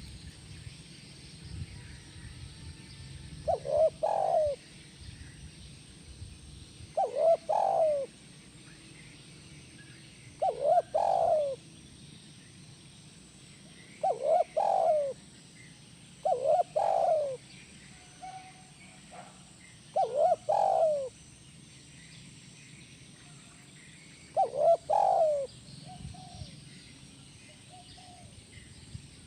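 Spotted dove (tekukur) cooing its song in the single-'kuk' (kuk 1) style that keepers prize. It gives seven phrases about a second long, one every three to four seconds, with a few faint short notes between them.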